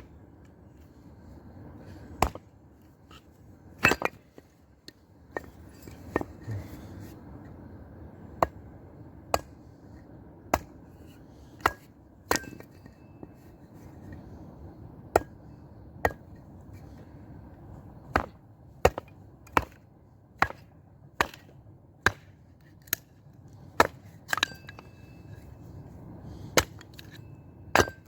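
Wood being chopped: a blade striking and splitting a small log, nearly thirty sharp blows at uneven intervals, some leaving a brief ringing tone.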